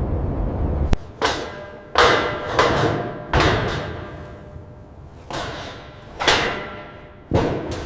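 A series of about seven heavy knocks or thuds at uneven intervals, each trailing off in a ringing, echoing decay. A low steady rumble cuts off about a second in, just before they begin.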